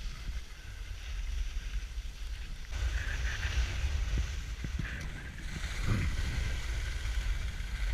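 Wind buffeting the microphone while skiing downhill, with the hiss of skis sliding on snow, which grows louder about three seconds in.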